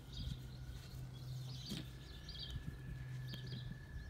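Small birds chirping faintly in short repeated bursts, over a low steady hum.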